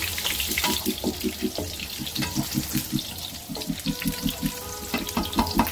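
Ginger and onions sizzling and crackling in hot oil in a wok while a spatula stirs them.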